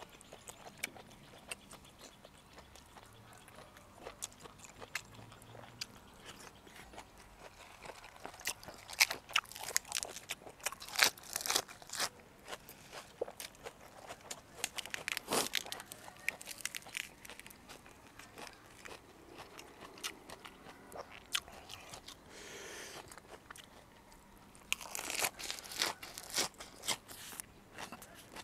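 Close-up chewing and crunching of boiled pig uterus and fresh lettuce leaves: irregular crisp crunches, thickest about a third of the way in and again near the end.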